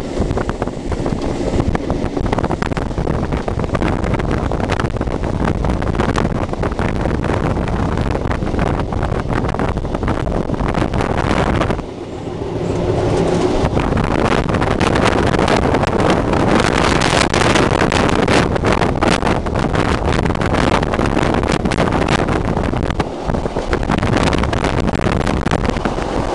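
Passenger train running along the line, heard from inside the carriage: a steady rumble and rattle of wheels on the track, with many small clicks. It dips briefly about halfway through, then runs louder and hissier.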